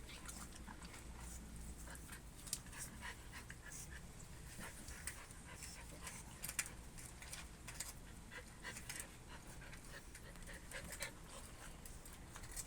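A dog panting, faint, with scattered short clicks and taps throughout.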